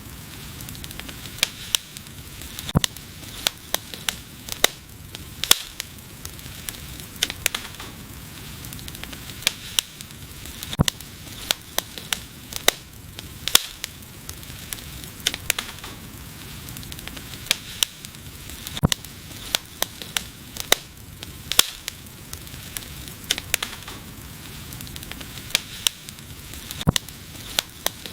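Wood fire crackling: a steady hiss under many sharp, irregular pops and snaps, several a second.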